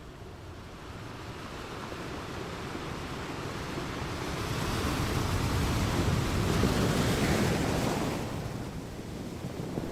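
Ocean surf: a wave's rush swells for several seconds, ebbs about eight seconds in, and the next wave rises near the end.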